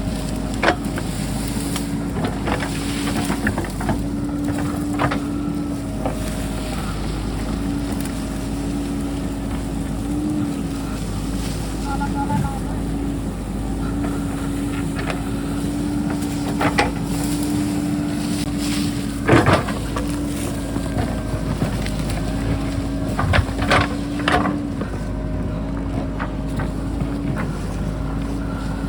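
JCB backhoe's diesel engine running steadily under load while it digs in rocky ground, with scattered sharp clanks and knocks of the bucket striking rock, the loudest one about two-thirds of the way through.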